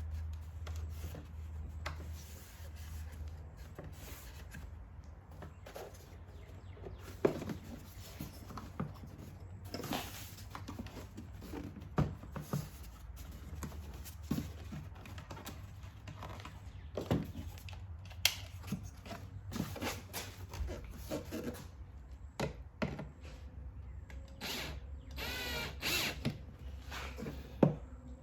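Plastic engine air box and paper air filter being handled and fitted: scattered clicks, knocks and scrapes, with a brief rasping rattle near the end.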